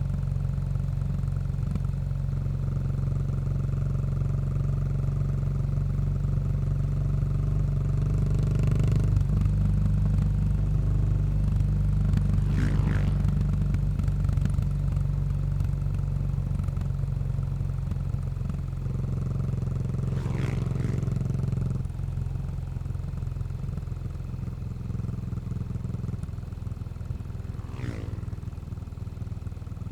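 Yamaha SR400's single-cylinder four-stroke engine running through a Goods tapered cone slip-on muffler while the bike is ridden at a steady pace. The note shifts around nine seconds in and drops in level around twenty-two seconds in.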